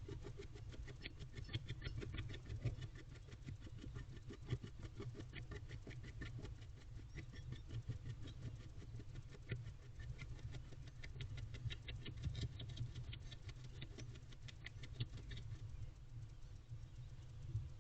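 Barn owl scratching and rustling about inside its nest box: dense runs of small scrapes and clicks that come and go, busiest about a second in and again past the middle, over a steady low rumble.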